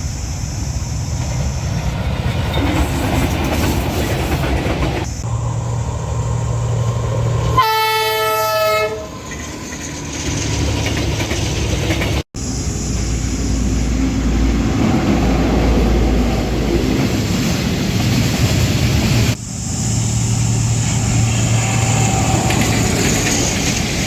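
Diesel trains rumbling past on the rails, with wheel clatter and engine noise across several spliced clips. About eight seconds in there is a single horn blast lasting about a second.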